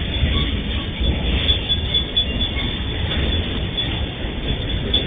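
A train rolling past: a steady rumble of wheels on the rails.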